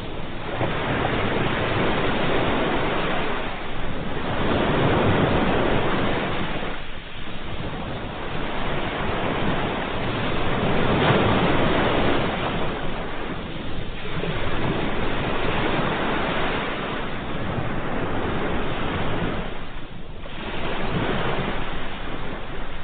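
Ocean waves breaking and washing in, a continuous surf that swells and ebbs every few seconds.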